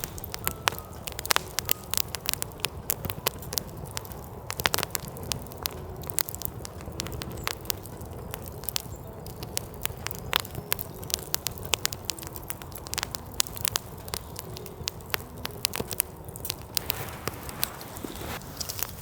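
Firewood burning in a campfire, crackling with irregular sharp pops and snaps over a low, steady rumble.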